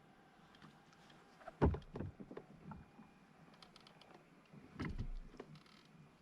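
Knocks and thumps on a plastic fishing kayak's hull, in two short clusters: one about one and a half to two and a half seconds in, the loudest, and another around five seconds in.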